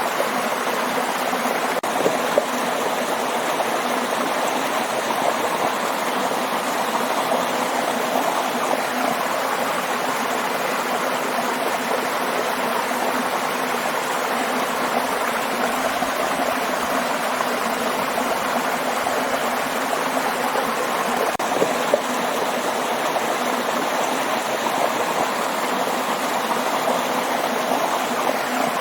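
Steady rushing of falling and flowing water, a waterfall or fast stream, with no break or change.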